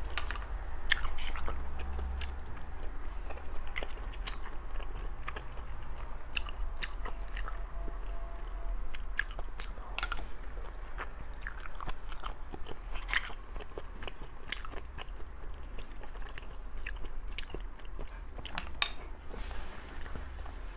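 Close-miked chewing and biting of spicy sea snail meat, with frequent irregular sharp clicks and smacks from the mouth.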